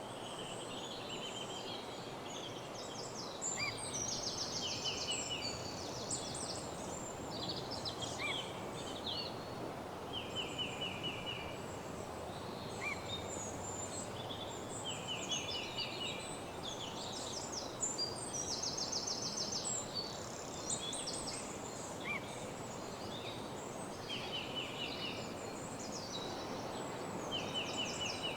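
Woodland dawn chorus: several songbirds singing in overlapping phrases, with repeated fast trills, over a steady background hiss.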